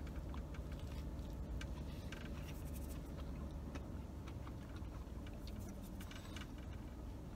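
A person chewing a bite of a toasted chicken salad BLT sandwich: faint, irregular crunching and mouth sounds over a low steady hum.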